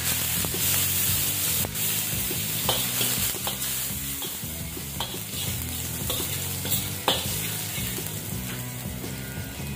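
Julienned ginger sizzling in hot oil in a metal wok while a metal spatula stirs it, with several sharp scrapes and clicks of the spatula against the pan. The sizzle eases a little toward the end.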